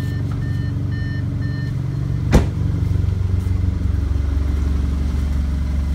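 2013 Audi A4's turbocharged engine idling steadily, with the turn-signal indicator ticking in the cabin about twice a second for the first couple of seconds. A single sharp knock comes a little over two seconds in.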